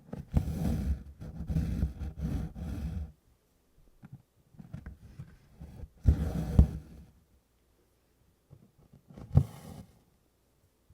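Cross-stitch needle and DMC floss drawn through 24-count Congress cloth in a series of pulls: a long one near the start, a loud shorter one about six seconds in, and a brief one near the end.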